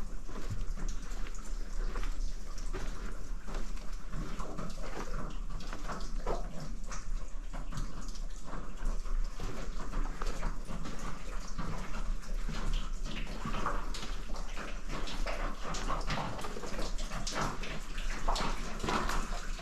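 Water dripping and splashing inside a concrete storm drain tunnel, with many irregular taps and steps, over a steady low hum.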